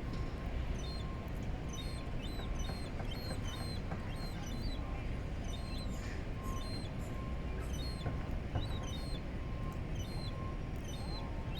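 Birds chirping: many short, high, hooked calls repeated at irregular intervals throughout, over a steady low rumble.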